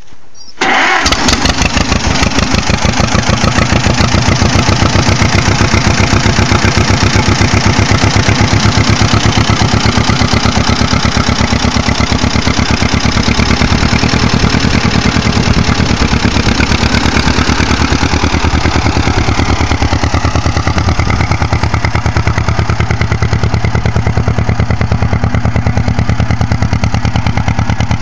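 1955 John Deere 40-V Hi-Crop tractor's two-cylinder engine catching almost at once after a brief crank, then running steadily with even, rhythmic firing pulses.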